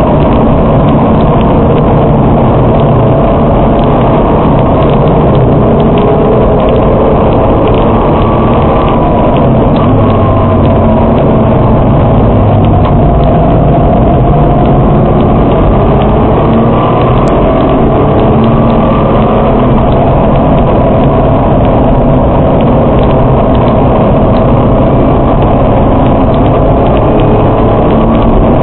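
Nissan GT-R R35's twin-turbo V6 engine, heard from inside the cabin at speed on a race track, together with tyre and road noise. The engine note rises and falls steadily throughout, and is loud.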